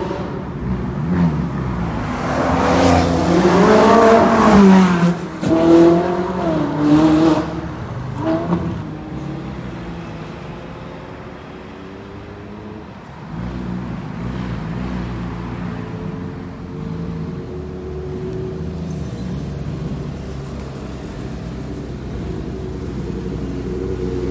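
Ferrari engine revving hard as it accelerates, its pitch rising and falling several times over the first eight seconds. After a few quieter seconds, a Ferrari 458 Italia's V8 idles steadily.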